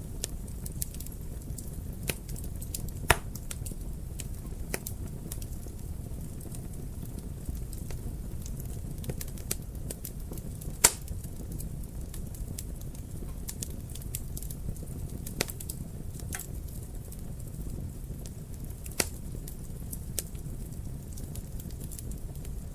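Wood fire in a fireplace crackling: a steady low rumble of flames under scattered sharp pops, the loudest about three seconds in and about eleven seconds in.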